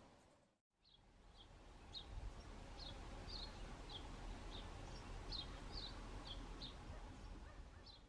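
A small bird's short, high chirps repeated about twice a second, faint over low outdoor background noise.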